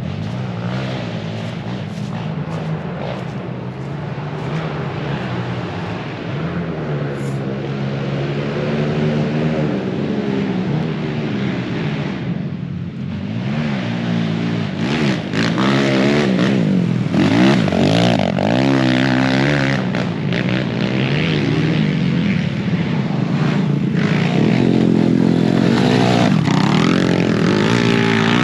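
Several pit bikes racing on a dirt track, their small single-cylinder engines revving up and down through the gears as they pass one another, louder in the second half.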